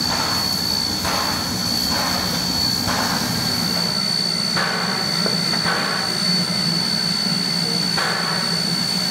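Steam locomotive A 428, an A class 4-6-2 Pacific, working with a steady hiss and hum and soft puffs every second or so, which space out after the first few seconds. A thin high tone runs on steadily over the top.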